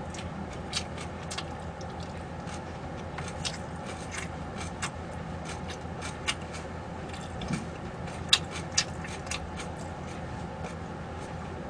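Eating at a table: scattered light clicks and taps of utensils and dishes at irregular intervals, a few sharper ones a little over two-thirds of the way through, over a steady low room hum.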